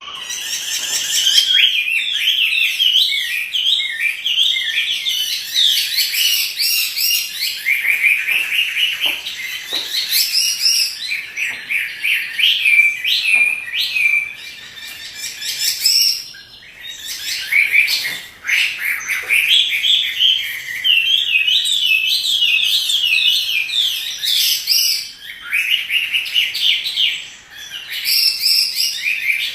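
Chinese hwamei singing in full song: a loud, rapid, endlessly varied run of whistled phrases, broken by brief pauses about halfway through and near the end.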